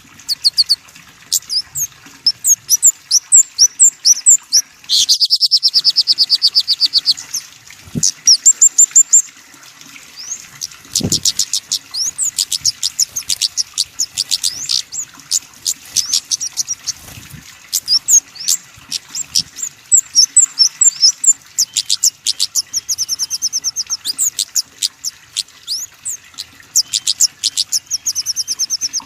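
Small songbirds giving rapid series of sharp, high-pitched chirps, with fast trills of quickly repeated notes about five seconds in and again near the end.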